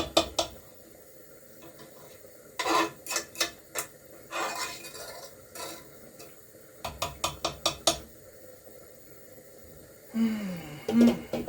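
A metal spoon knocking and scraping against a cooking pot in several short bursts of clinks, with quiet gaps between them.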